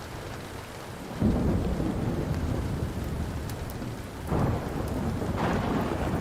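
Steady rain with rolling thunder that swells up suddenly about a second in and again twice after the four-second mark, over a few faint fire crackles.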